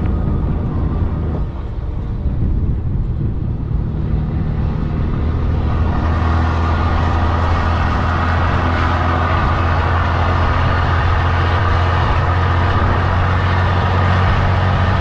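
Heavy diesel truck engine running steadily, building to a louder, fuller drone from about six seconds in as it pulls under load.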